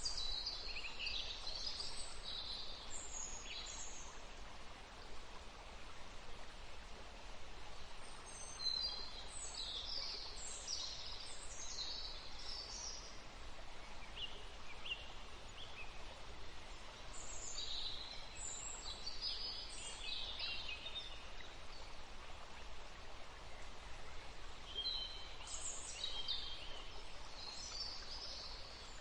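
Songbirds singing in short bursts of high chirps that come back about every eight seconds, over a steady background hiss.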